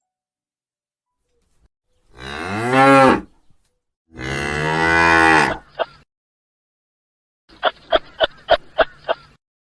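Cow mooing: two long, loud calls, each rising and then falling in pitch. Near the end comes a rapid run of about eight short sounds, roughly four a second.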